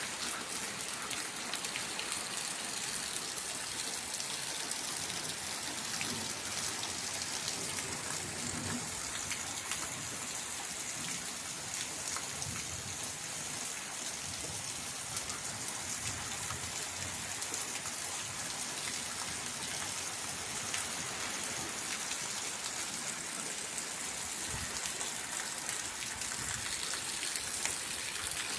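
Steady rain falling, a continuous hiss with many fine drop ticks.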